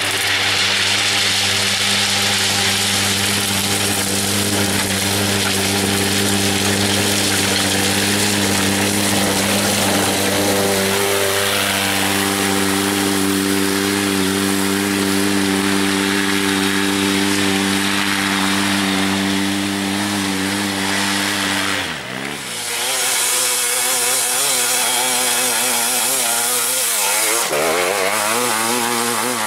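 Off-road motorcycle or quad engine held at steady high revs for about twenty seconds, then the pitch drops suddenly and rises and falls as the throttle is worked on loose rock.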